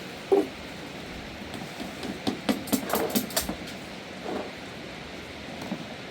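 Irregular knocks and clatters over a steady hiss: one sharp knock just after the start, a quick run of clicks and knocks in the middle, and a few softer ones near the end.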